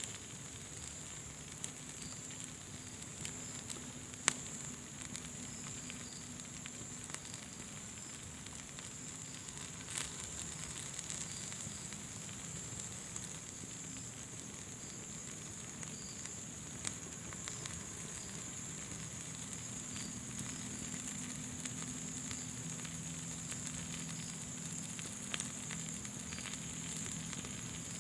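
Fire burning in a fireplace: a steady crackling hiss with a few scattered sharp pops, the loudest about four seconds in and another around ten seconds.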